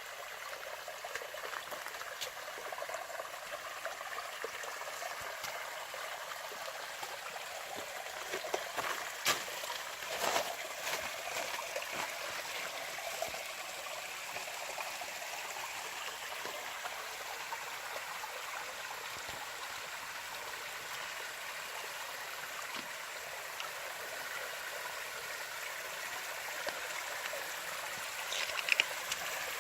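A small mountain stream flowing and trickling over rocks, a steady rush of water with a few brief louder splashes about a third of the way in and near the end.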